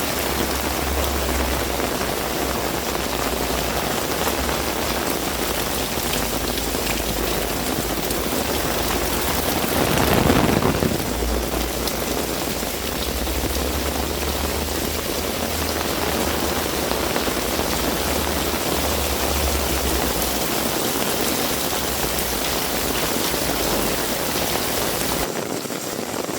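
Heavy rain falling steadily, with a brief louder swell about ten seconds in.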